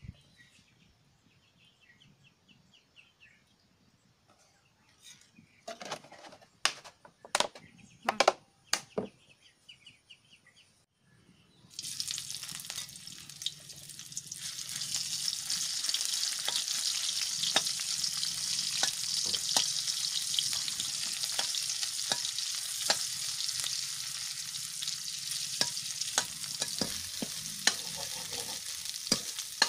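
Several sharp knocks, then about twelve seconds in, food goes into hot oil in a wok and it starts sizzling loudly and steadily. A metal ladle scrapes and clicks against the wok as it is stirred.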